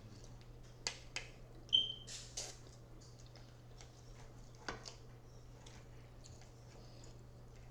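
Close-up eating sounds of someone chewing shrimp: a few sharp wet mouth clicks and smacks in the first five seconds, one with a short squeak, then only faint chewing.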